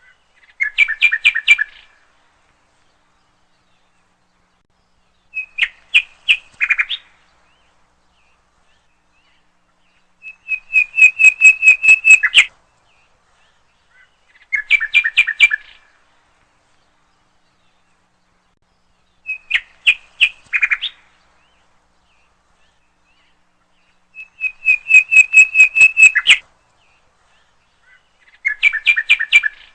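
A songbird singing short phrases of rapid, evenly repeated clear notes. There are seven phrases, each lasting a second or two, with pauses of a few seconds between them.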